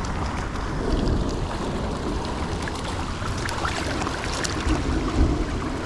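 Rushing river water with wind buffeting the microphone, a steady low rumble under scattered light ticks.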